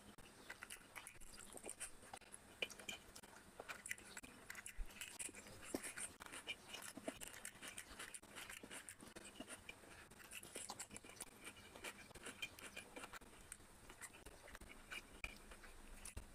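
Faint, close-up chewing of biryani and curry eaten by hand: a steady run of small wet mouth clicks and smacks, with fingers working the rice on the plate.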